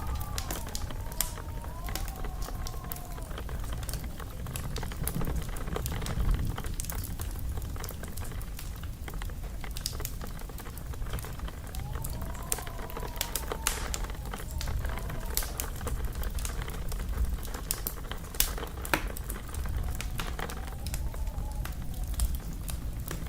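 Wood fire crackling and popping irregularly over a low rumble. A faint wavering whistle rises and falls a couple of times.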